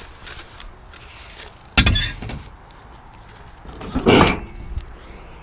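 Two heavy metal bangs about two seconds apart, the second ringing briefly: a vehicle's doors being shut.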